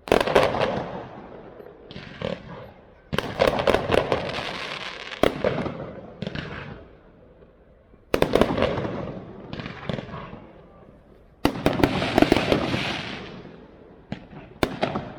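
Aerial fireworks bursting in volleys. Each volley opens with sharp bangs and trails off into a crackle that fades over a few seconds. Four big volleys come a few seconds apart, with smaller bursts between them.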